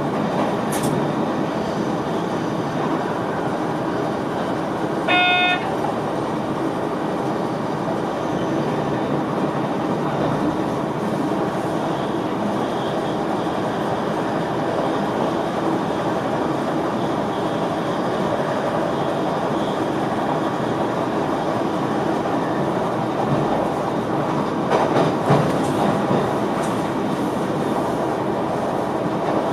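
Running noise of an NS VIRM double-deck electric train heard in the driver's cab: a steady rumble of wheels on rail and traction equipment. About five seconds in, a single short beep-like tone sounds for about half a second, and a few knocks come near the end.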